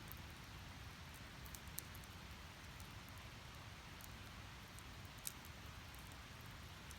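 Firewood burning in a fire pit: a steady faint hiss with sparse light crackles and one sharper pop about five seconds in.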